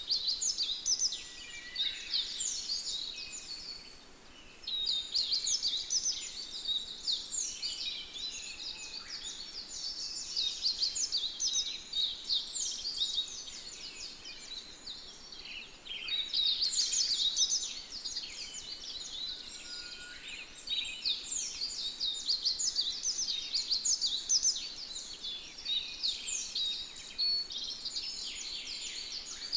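A dense chorus of many small birds chirping and twittering together in quick overlapping calls, with a brief lull about four seconds in.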